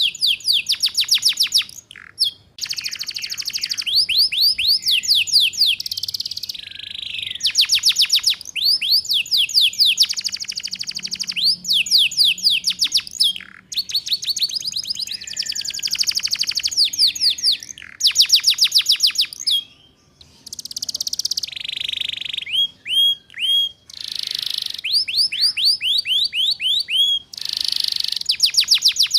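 Domestic canary singing the rapid 'ngeriwik' trill: phrases of very fast, repeated down-slurred notes a couple of seconds long, broken by short pauses, with a few separate hooked whistles in the last third.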